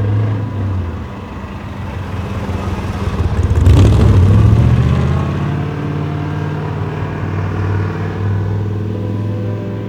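A car engine driving past, swelling to its loudest about four seconds in and then easing back to a steady run.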